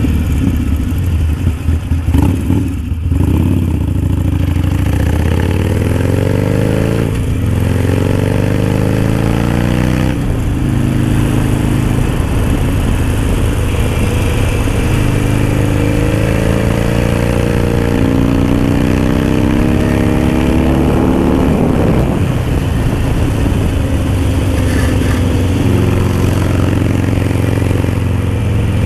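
Harley-Davidson Sportster Roadster's V-twin engine, fitted with a new aftermarket Dan Moto exhaust, accelerating on the road: its pitch climbs and drops back at each gear change, several times over.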